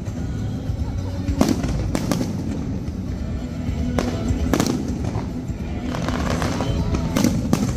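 Fireworks display: aerial shells and rockets bursting with six sharp bangs that come in pairs about half a second apart, over steady background music.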